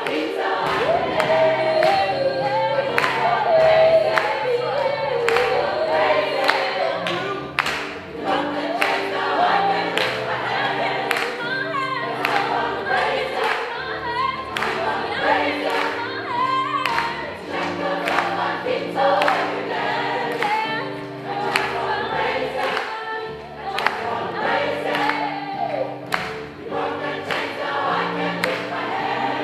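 Gospel choir singing to band accompaniment, over a steady beat of about two strokes a second.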